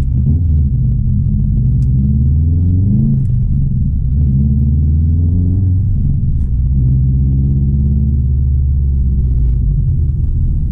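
Built 2016 Subaru WRX STI's turbocharged 2.5-litre flat-four boxer engine running under way with a deep rumble, its pitch rising and falling with the revs several times.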